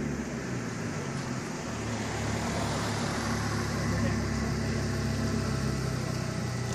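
Steady low engine rumble from cars rolling slowly at low revs, among them a Volkswagen Golf 4 fitted with an Audi RS6's twin-turbo V10.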